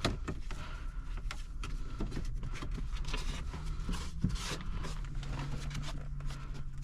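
Scattered clicks and light knocks of small parts being handled and set down inside a car's cabin during dashboard disassembly, over a low rumble, with a steady low hum in the second half.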